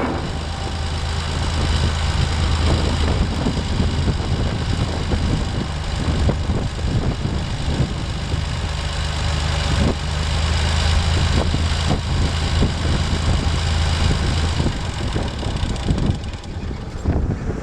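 Massey Ferguson 135 tractor engine idling steadily with a rough, even note; about 15 seconds in the steady low note changes and wavers.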